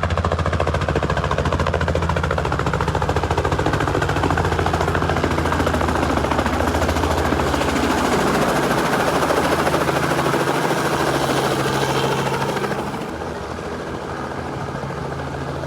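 Helicopter flying close by, its rotor blades beating in a fast, steady chop over a low engine drone. The sound eases off somewhat near the end.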